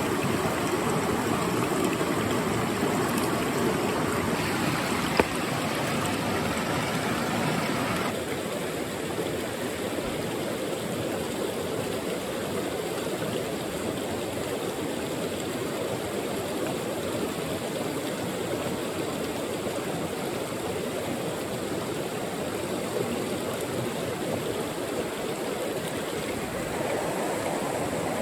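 Mountain stream water running steadily. About eight seconds in, the rush changes abruptly to a slightly quieter, duller one. There is a single sharp click about five seconds in.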